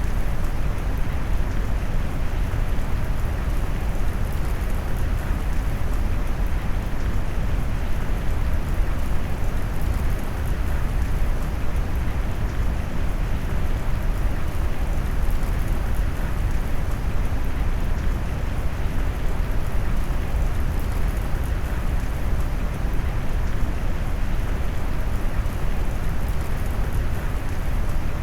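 Steady rain mixed with deep brown noise: an even, unbroken rush weighted heavily toward the low end, with no distinct drops, thunder or other events standing out.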